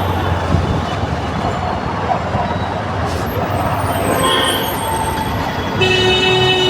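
Heavy road traffic in a jam, with engines running and a steady mix of road noise. Near the end a vehicle horn starts and is held.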